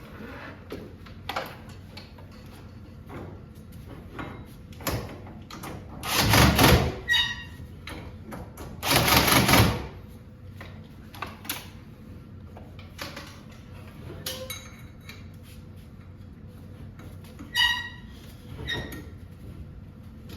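Metal clinks, clicks and short ringing taps of garage door hardware being handled as a lift cable is fitted onto the torsion tube's cable drum, with two louder noisy sounds about a second long, around six and nine seconds in.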